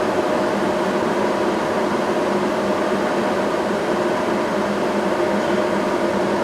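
Saab 9000 heater blower fan running steadily with an even whoosh and a constant hum.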